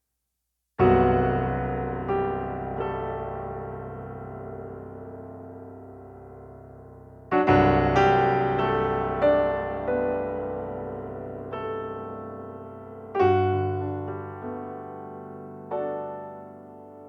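Slow, gentle solo piano music: chords struck every few seconds and left to ring and fade, with a few single notes in between. It starts about a second in.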